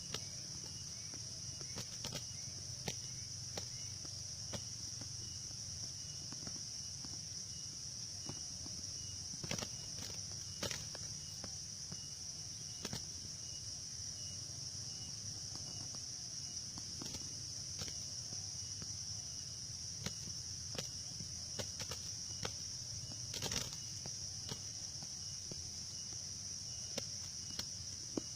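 Steady high-pitched insect drone, like crickets or cicadas, with a fainter evenly pulsing chirp beneath it. Scattered sharp clicks and taps come throughout, the loudest cluster about three-quarters of the way in.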